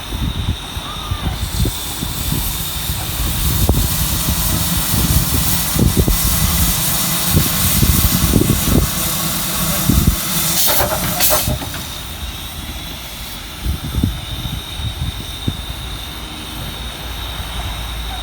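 LMS Jubilee steam locomotive 45690 Leander with steam hissing over a rumble of irregular low thumps. A louder burst of hiss comes about ten seconds in and lasts about a second.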